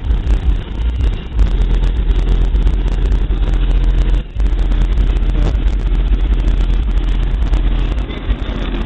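Three Rockford Fosgate Punch HX2 12-inch subwoofers playing deep bass at high volume, with a brief dropout about four seconds in.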